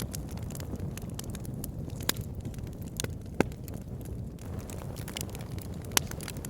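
Wood fire burning in a log burner: a steady low rumble of flames with scattered crackles and pops from the logs, the sharpest about three and a half seconds in and again near the end.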